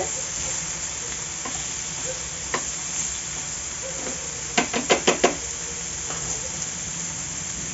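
Masala-coated chicken pieces sizzling in hot oil on a tawa, a steady hiss. About halfway through comes a quick run of sharp taps.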